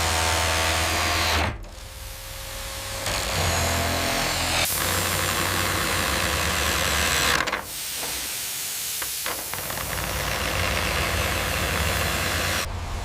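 A power tool running: a steady hiss over a low hum, broken into segments that cut off abruptly about a second and a half in, at around five seconds, about seven and a half seconds in, and near the end.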